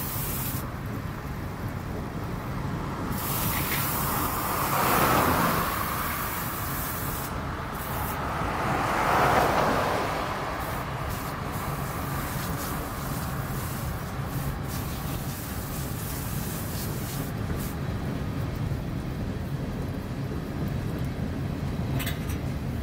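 Freight train cars rolling past: a steady low rumble of steel wheels on rail. Twice, around five and nine seconds in, a louder rush of noise swells and fades.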